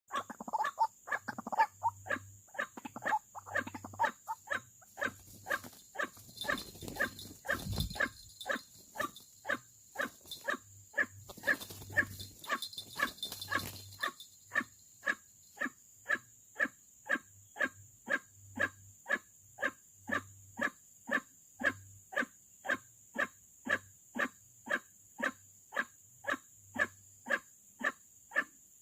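White-breasted waterhen calling: a short croaking call repeated steadily about twice a second, louder and less regular in the first couple of seconds. A rustling noise runs under the calls from about 6 to 14 seconds in.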